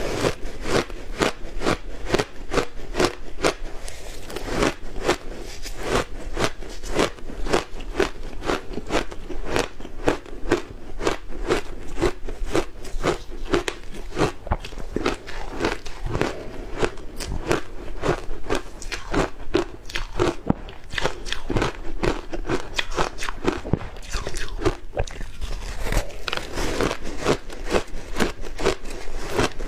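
Close-up crunching of matcha-powdered ice being bitten and chewed, a steady run of sharp crunches about two to three a second.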